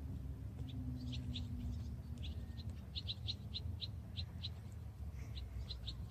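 A small bird chirping: a run of short high chirps, at times about three a second, over a low steady rumble.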